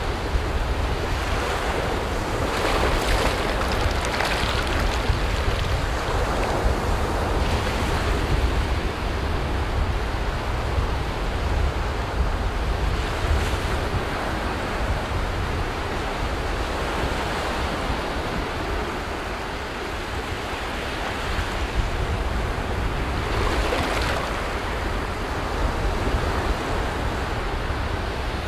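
Ocean surf breaking on a beach: a continuous wash of waves that swells up now and again, loudest about three to four seconds in and again near twenty-four seconds. A low rumble of wind on the microphone runs beneath it.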